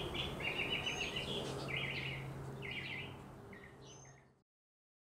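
Small birds chirping and trilling in short repeated phrases over a faint steady hum; everything fades out about three to four seconds in, leaving silence.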